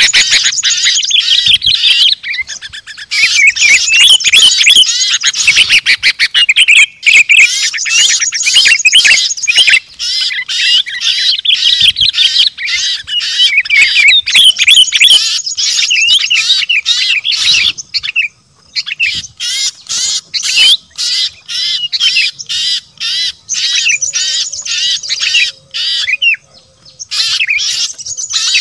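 Dense, loud chatter of many small songbirds calling at once, rapid chirps and trills in long runs with brief pauses: a bird-lure recording of noisy small birds.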